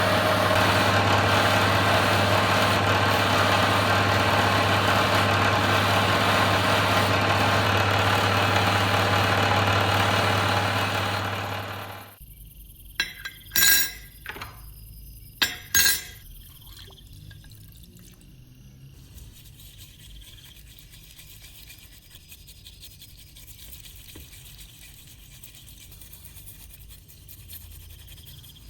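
A workshop power tool's electric motor running loudly with a steady hum, then switched off and winding down about twelve seconds in. Two sharp clinks follow, about two seconds apart, then only faint background noise.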